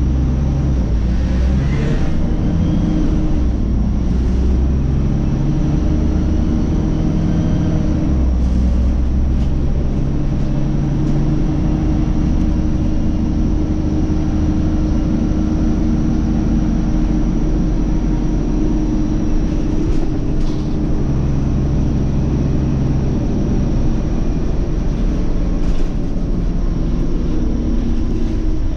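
Scania OmniCity city bus engine and drivetrain running while the bus drives, a steady low rumble whose pitch shifts up and down several times as the bus speeds up and slows.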